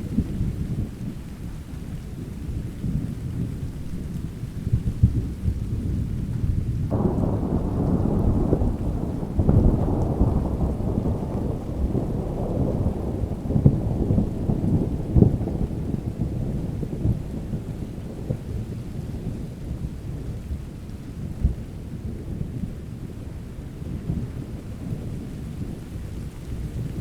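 Steady rain with continuous rolling thunder. About a quarter of the way in a louder thunder roll breaks in suddenly, rumbles for several seconds and slowly fades back to a low background rumble.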